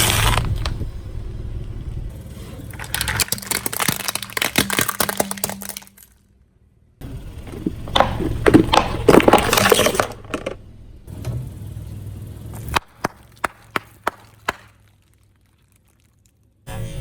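Crunchy objects crackling and crunching as a car tyre rolls over and crushes them, in two long stretches of dense crackle, over the low hum of the car's engine. Near the end come about half a dozen separate sharp cracks.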